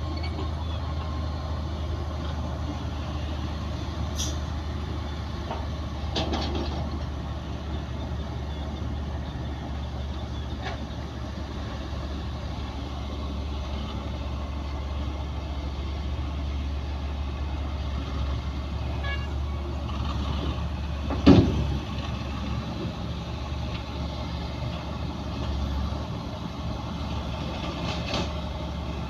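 Heavy diesel engines of a bulldozer and dump trucks running steadily, with one loud clank about two-thirds of the way through and a few fainter knocks earlier.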